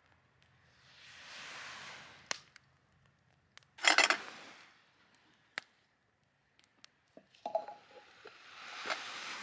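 Handling noises: scattered sharp clicks and clinks, with a dense rattling clatter about four seconds in, set between two slow swells of soft hiss.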